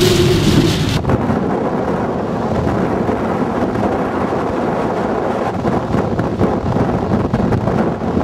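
Strong wind buffeting the microphone, a dense low rumble that gusts unevenly. It starts abruptly about a second in, replacing a brighter, hissier noise.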